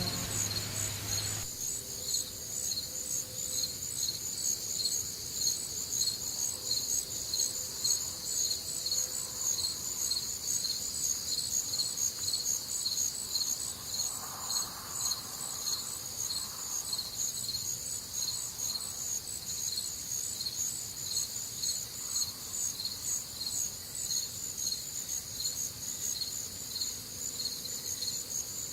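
Cricket chirping steadily in an even rhythm of short high chirps. The tail end of a sung hymn with music cuts off about a second and a half in.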